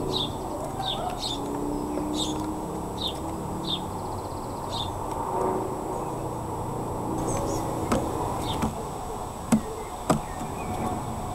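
A small bird giving a series of short, high chirps, each falling slightly in pitch, through the first five seconds. A few sharp taps follow near the end.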